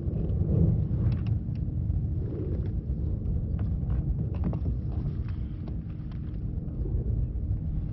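Wind buffeting the microphone as a steady low rumble, with scattered small slaps and clicks of choppy water.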